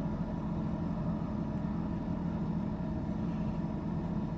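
Steady hum of a 12-volt portable fridge's compressor and cooling fan running while it cools, drawing about 3.7 amps.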